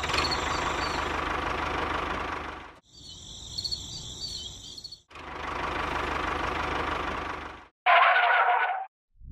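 Small electric motor and gearbox of a homemade toy tractor running steadily, in two stretches of a few seconds each. Between them is a quieter pause with faint high chirping, and a short, louder burst of noise comes near the end.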